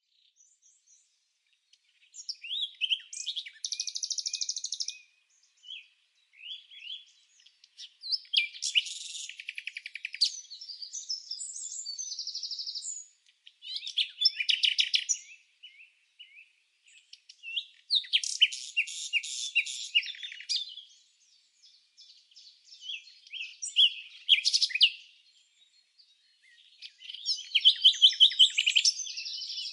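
A small songbird singing in separate phrases of rapid high chirps and trills, about six phrases each lasting two to three seconds, with short silent pauses between them and no background noise.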